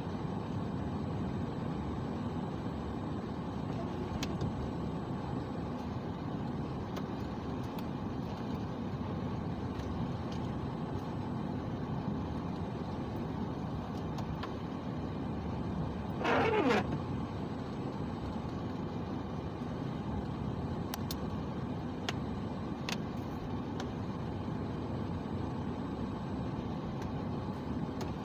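Steady car cabin noise of engine and tyres on wet, snowy roads while driving. About sixteen seconds in, a short louder wavering sound rises over it.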